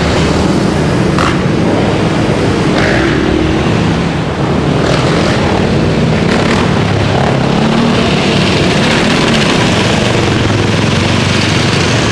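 Dirt bike engines running and revving close by, their pitch wavering up and down, over a steady rush of noise.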